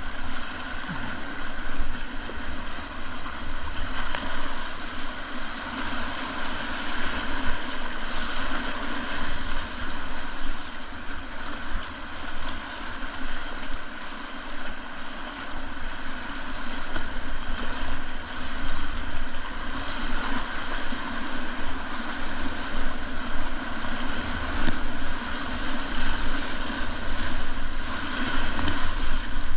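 Steady rush of whitewater in a river rapid, a continuous noisy hiss of moving water that swells and eases a little without any rhythm.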